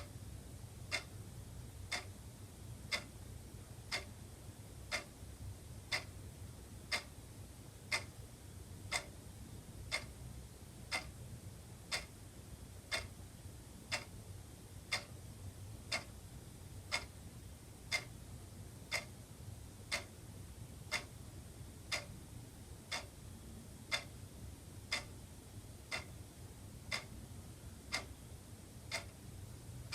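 Wall clock ticking steadily, one tick a second, over a faint low hum.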